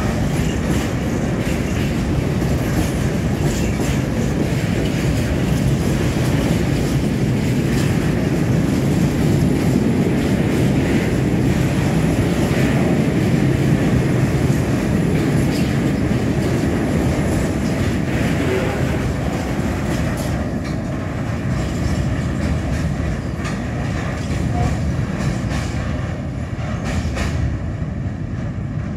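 Freight train of empty tank wagons rolling past close by: a steady rumble with repeated knocks from the wheels. It eases in the last several seconds as the end of the train passes and draws away.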